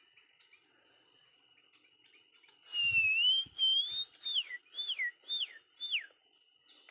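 A bird whistling: a wavering, rising whistle about three seconds in, then four quick downslurred whistles, about two a second. A steady high insect drone sits underneath.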